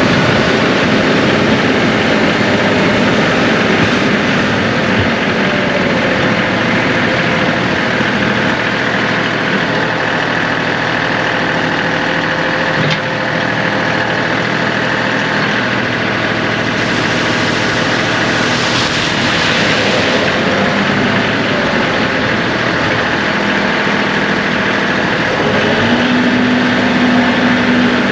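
John Deere 2038R compact tractor's three-cylinder diesel engine running steadily, with a new, stronger tone coming in near the end.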